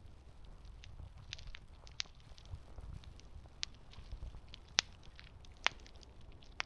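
Campfire crackling: burning wood gives irregular sharp pops and snaps, the two loudest close together about five seconds in, over a low steady rumble.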